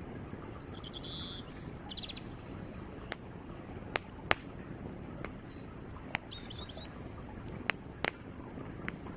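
Campfire wood crackling, with about nine sharp pops spread through the second half, over the steady rush of a flowing creek. A bird chirps briefly twice, near the start and about two-thirds through.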